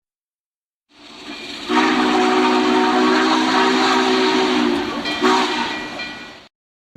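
Steam locomotive chime whistle: steam hiss builds, then one long blast of several notes sounding together for about three seconds, followed by a short second blast, with the hiss trailing off before it cuts off.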